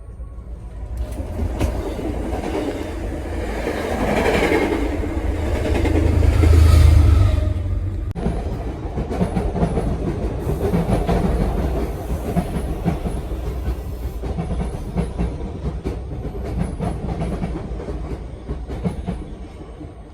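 MBTA Red Line subway train running on the rails with a deep rumble and frequent sharp clicks of wheels over rail joints. The rumble builds to its loudest about seven seconds in, then changes abruptly and runs on steadily.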